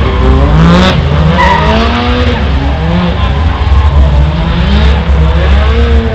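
Drift car's engine revving up and down repeatedly while its tyres squeal in a slide.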